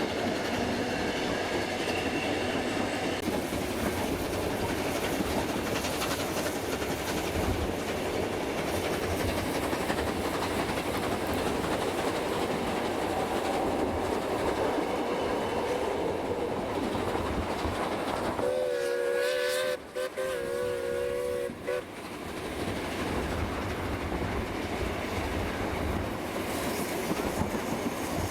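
Steam train running, with the steady rumble and clatter of the carriages on the rails. About two-thirds of the way through, the locomotive's steam whistle sounds twice in quick succession.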